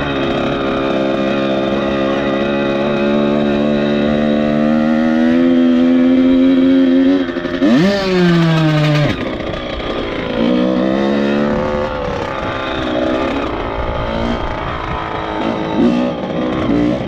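Dirt bike engine pulling through the revs. Its pitch climbs steadily for about seven seconds, then spikes sharply and drops about eight seconds in, followed by shorter rises and falls at lower revs as the rider works the throttle and changes gear.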